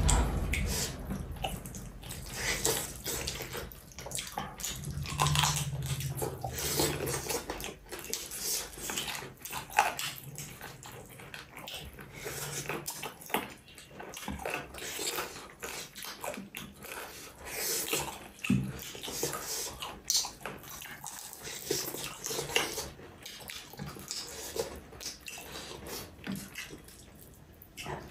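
Close-miked chewing and wet lip-smacking of a person eating rice and egg curry, as irregular short smacks and clicks.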